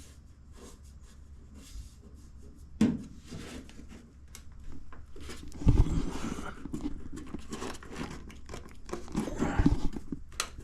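Short bursts of crackling from MIG welding on the car's sheet-steel rear panel, mixed with knocks and thumps. There is a sharp knock about 3 s in, and denser crackling with heavy thumps from about halfway and again near the end.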